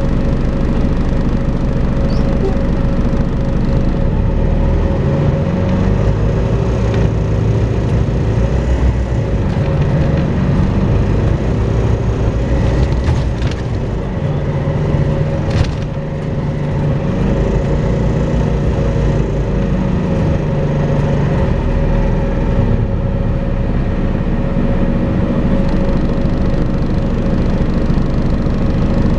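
Volvo B5LH hybrid bus's diesel engine running under way with a steady, high, vacuum-cleaner-like whine ("hoovering") over its engine note. The engine note rises and falls with the throttle. A sharp crack or rattle is heard about halfway through.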